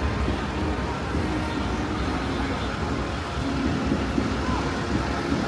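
Steady road traffic: cars and heavier vehicles running past on a city street, with a low engine hum under the tyre noise.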